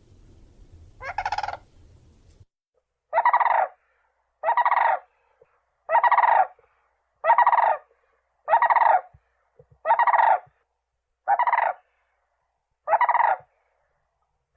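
Common crane giving loud trumpeting calls: one call about a second in, then a steady series of eight calls, about one every one and a half seconds.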